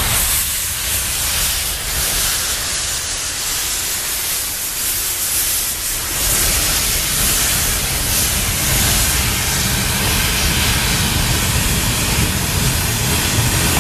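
SY-class 2-8-2 steam locomotive hissing steam; about six seconds in, a low rumble joins the hiss and carries on under it.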